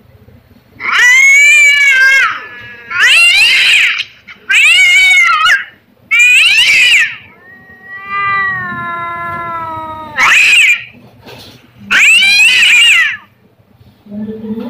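Domestic cat meowing loudly and repeatedly: about seven drawn-out meows that rise and fall in pitch, with one longer, quieter, slowly falling meow about halfway through.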